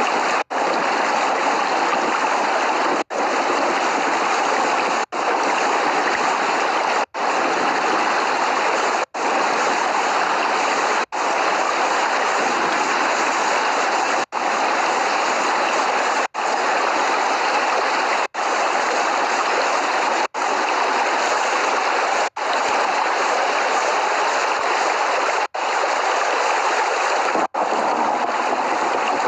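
Steady heavy rain, an even hiss with no thunder, cutting out for an instant about every two seconds.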